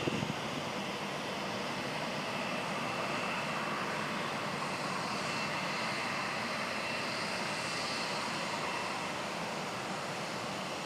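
Boeing 737-700's twin CFM56-7B turbofan engines running: a steady jet rush with a thin, steady high whine.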